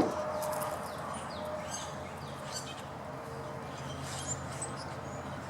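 Birds chirping: short, high calls scattered over a steady hiss of open-air background noise.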